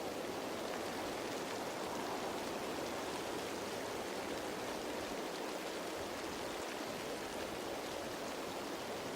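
Rain falling steadily on leaves: an even hiss of many raindrops, with no single drop or gust standing out.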